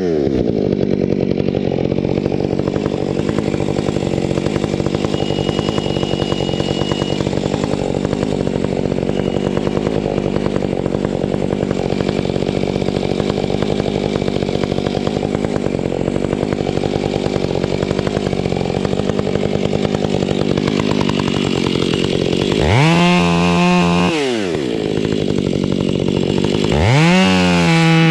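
Gas chainsaw idling steadily for a long stretch, then revved up briefly and let back down, then revved up again near the end.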